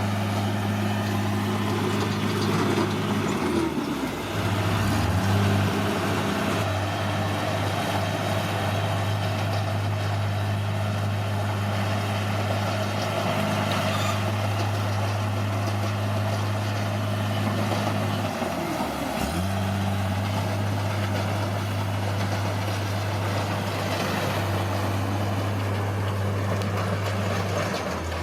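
Heavy diesel engine of a bulldozer running steadily, its note briefly sagging and picking back up twice, about four seconds in and again past the middle, as it takes load.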